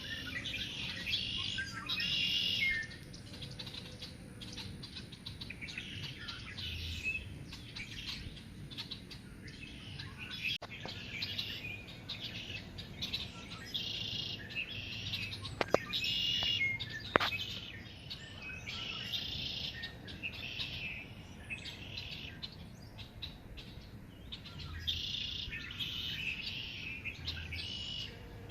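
Wild birds singing and chirping: a short high song repeated every few seconds, with other twittering calls between. Two sharp ticks come about halfway through.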